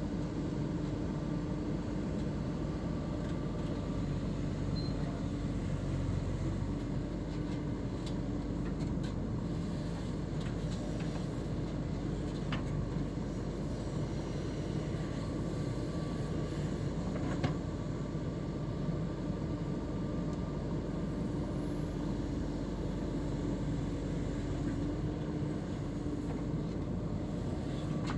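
JCB 3DX backhoe loader's diesel engine running steadily with a constant hum and a faint whine, with a few light clicks and knocks now and then.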